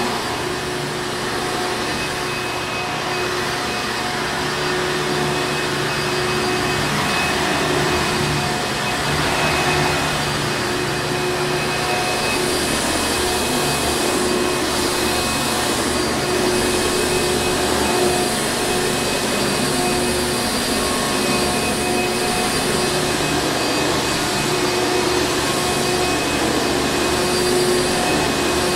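Hoover Encore Supreme vacuum cleaner running steadily: a constant motor whine over the rush of air.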